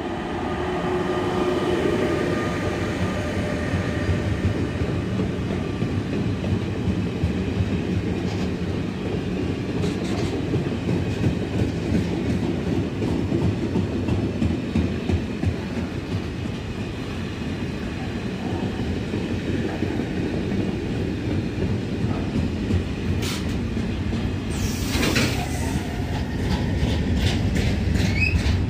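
Class 186 TRAXX electric locomotive and its long freight train of mixed wagons passing close by. The locomotive goes by first, then the wagons roll past with a steady rumble and wheels clacking over the rails. About 25 seconds in there is one brief, loud sharp noise.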